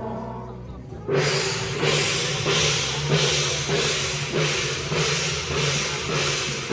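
Procession drums and cymbals beating a steady rhythm, about one and a half strokes a second, starting suddenly about a second in, over a low steady tone.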